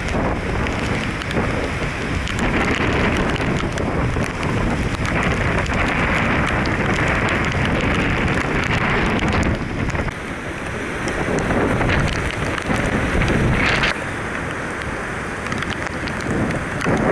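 Hurricane-force wind and heavy rain in a steady rush, with wind buffeting the microphone.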